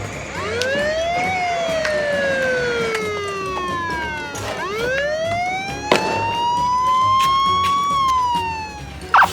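Police siren wailing in two slow cycles, each rising in pitch and then falling back, with a single sharp click about six seconds in.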